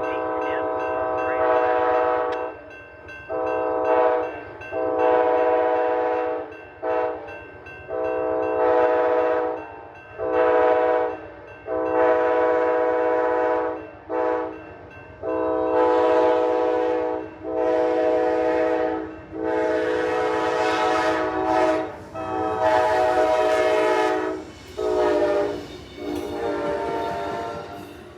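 Amtrak diesel passenger locomotive's multi-chime air horn blowing a long series of blasts, some long and some short, with a low train rumble underneath.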